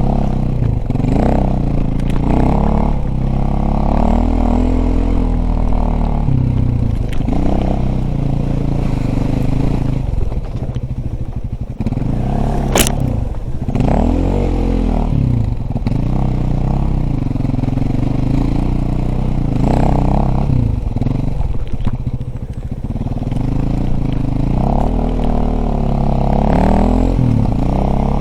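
Dirt bike engine running under throttle while riding, its pitch rising and falling repeatedly as it revs up and eases off. There is one sharp click about halfway through.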